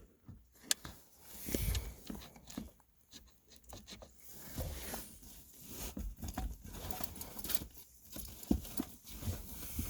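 Irregular clicks, knocks and rustling of plastic and metal parts as a car's gear shifter assembly and its shift cable are handled and eased into position.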